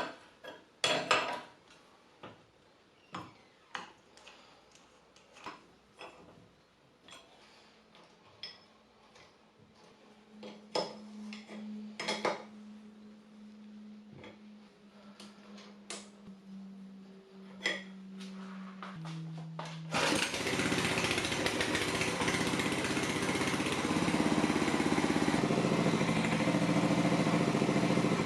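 Scattered workshop knocks and clicks, then about two-thirds of the way in a small petrol engine starts running loudly and steadily, its pitch shifting slightly near the end.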